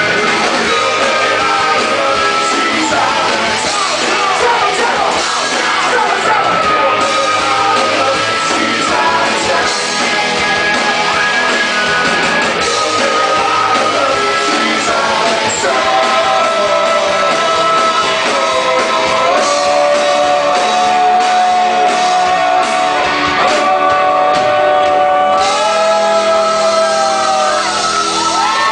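Live rock band playing loudly, with singing and shouts over the band and long held, bending melody lines.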